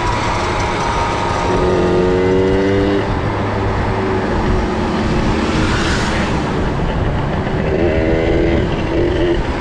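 Small two-stroke minibike engines running on a ride, the pitch climbing as the throttle opens twice, a couple of seconds in and again near the end, over a steady low rumble. A swell of rushing noise about six seconds in.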